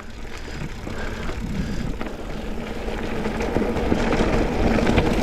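Mountain bike riding noise on a dirt double-track: wind on the microphone and tyre rumble, growing steadily louder as the bike picks up speed downhill.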